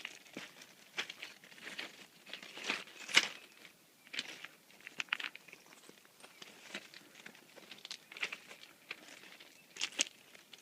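Footsteps crunching on gravel railroad ballast, an irregular crunch about once a second.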